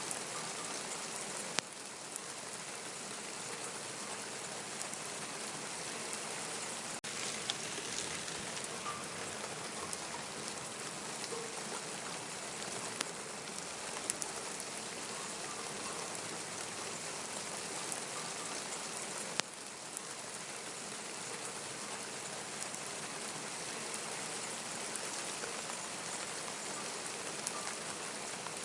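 Steady rain falling and pattering on surfaces, with a few sharp drip-like clicks scattered through it.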